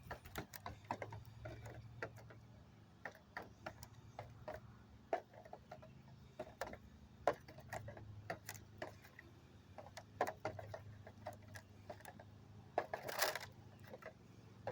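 Bird feeder being handled as its top is worked off: irregular light clicks and taps, with a short scraping rustle about 13 seconds in.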